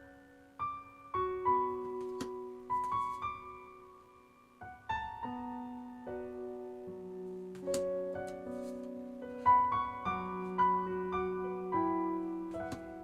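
Slow, gentle solo piano music: single notes and held chords played as background music.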